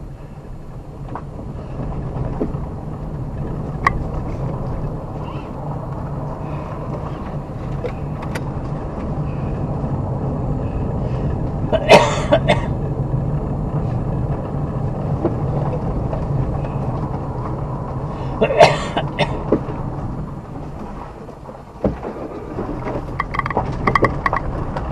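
Car driving along a forest road: a steady low engine and tyre rumble that builds over the first few seconds, broken by a couple of short, sharp crackles about halfway through and again some seconds later.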